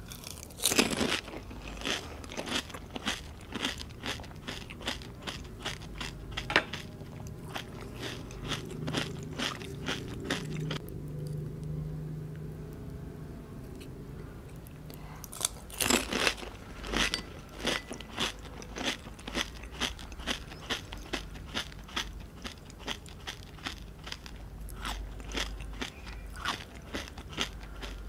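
Close-miked crunching of whole pani puri, the crisp fried hollow shells filled with spiced water, being bitten and chewed. Two mouthfuls: each opens with a loud crack and is followed by rapid crisp chewing, the second starting a little past halfway after a quieter pause.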